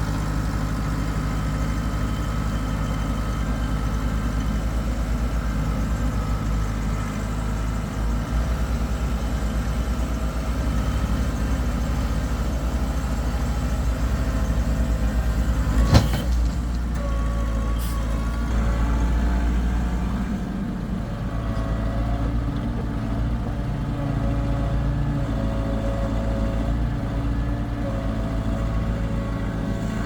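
Diesel engine of a heavy construction machine running steadily, with one sharp metallic clank about halfway through and a lighter click shortly after.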